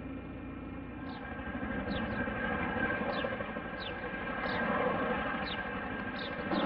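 Aircraft engine noise with steady tones, growing louder as the aircraft approaches. A row of short, high, falling chirps repeats over it about every two-thirds of a second.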